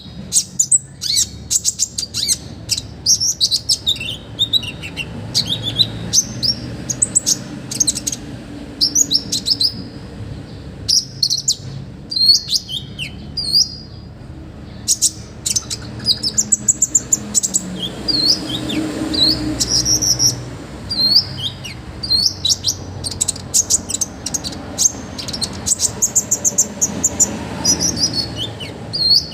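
A konin songbird singing energetically: fast bursts of sharp, high, down-slurred whistles and chips, repeated in quick series with short pauses.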